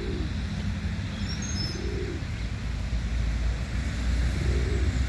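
Birds calling: three low, soft calls that rise and fall, about two seconds apart, and a short run of high thin peeps about a second and a half in, over a steady low rumble.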